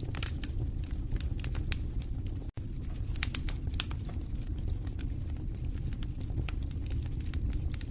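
Wood fire burning in a fireplace: a steady low rumble of flames with irregular sharp crackles and pops, thickest about three to four seconds in. A split-second gap of silence about two and a half seconds in.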